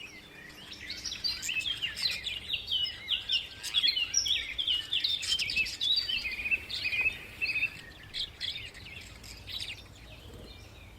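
Small birds chirping, a rapid run of many short, high-pitched notes over one another, thinning to scattered calls about eight seconds in.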